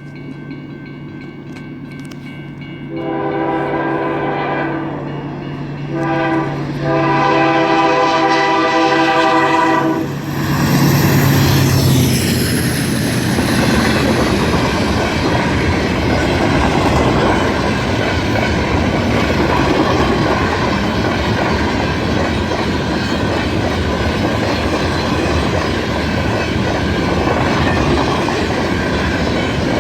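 CN freight train's diesel locomotive approaching with its engine running, then sounding its air horn: a long blast, a short one and a long one. The locomotive passes at about ten seconds, and the freight cars then rumble steadily past with clacking wheels.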